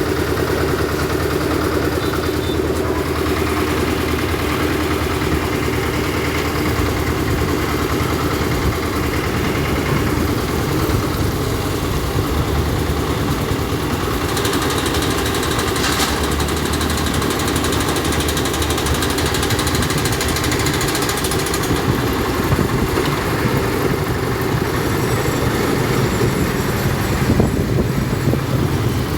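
Engine of a concrete mixer machine with a lift running steadily, with a sharp knock about halfway through.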